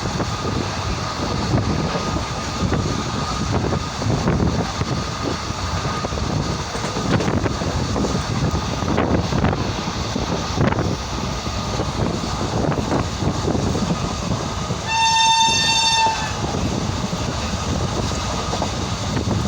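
Indian Railways express train running through a station without stopping, its wheels and coaches making a continuous rumble and clatter. About three-quarters of the way through comes one shrill horn blast lasting about a second and a half.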